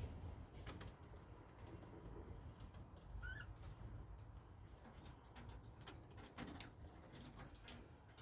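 Faint sounds of pet birds: scattered small clicks and scratches, with one short chirp about three seconds in.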